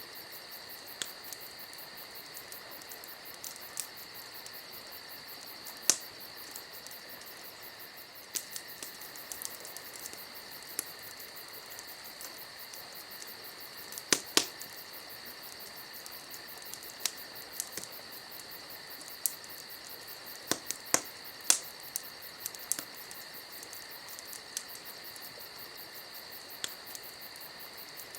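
Campfire crackling, with scattered sharp pops, the loudest about six seconds in, twice near the middle and several in quick succession about two-thirds through. Under it, a steady high chirping of insects.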